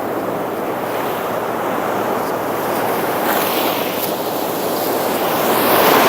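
Atlantic Ocean surf breaking and washing up the beach in a steady rush, with one wave swelling louder near the end and then falling away.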